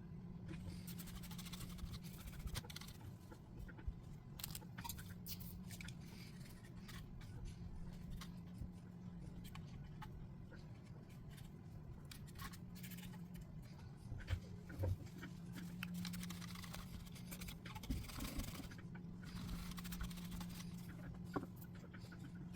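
Faint scraping and rubbing with scattered small clicks: hardened grease being cleaned out of an Onity door lock's clutch housing with a cotton swab and cleaner, over a steady low hum.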